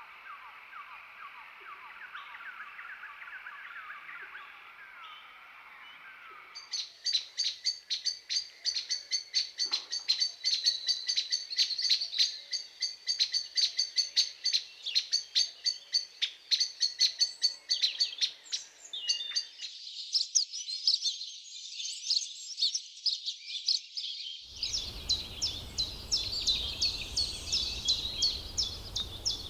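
Amazon rainforest birds calling in a run of different recordings. Soft chattering at first, then a loud, fast series of repeated chirps from about six seconds in. Higher trills follow, and near the end fast repeated notes over a low rumble.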